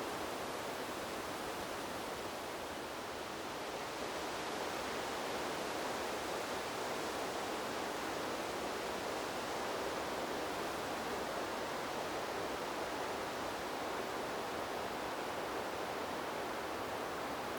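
Wind blowing through a bamboo grove, the leaves rustling in a steady rush that swells slightly about four seconds in.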